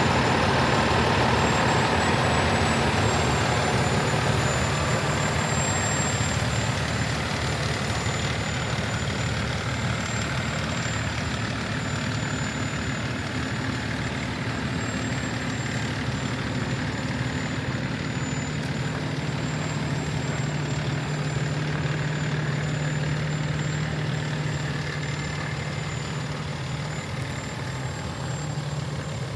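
Cummins ISL9 diesel engine of a 2013 Freightliner 114SD truck idling steadily, with a thin high whine above the low engine hum.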